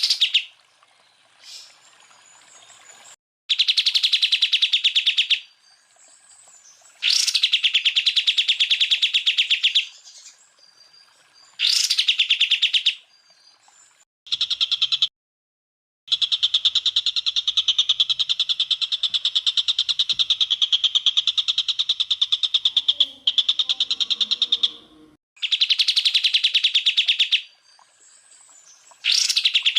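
Cucak ijo (green leafbird) singing its rapid machine-gun 'tembakan' trills: bursts of very fast, evenly repeated high notes, each one to several seconds long, with short pauses between. The longest burst runs about seven seconds in the middle, and some bursts break off abruptly.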